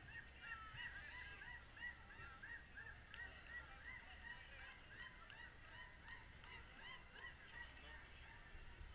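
Birds calling faintly: many short calls, each rising and falling in pitch, overlapping and repeating several times a second.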